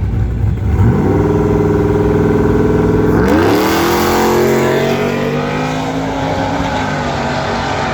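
Vehicle engine revving up about a second in and holding its pitch, then rising smoothly again a little past three seconds as it accelerates hard, with a slight dip in pitch near five and a half seconds.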